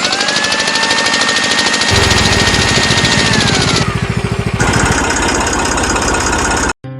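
A small electric motor of a DIY model tractor and chaff cutter running with a loud, rapid rattling buzz. A steady whine in it drops in pitch about halfway through.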